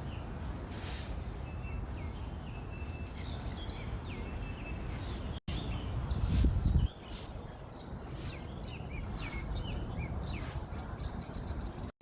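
Small birds chirping and twittering, many short high calls throughout, over a steady low background noise. A louder low rumble comes in for about a second, six to seven seconds in, and the sound cuts out for an instant about five seconds in.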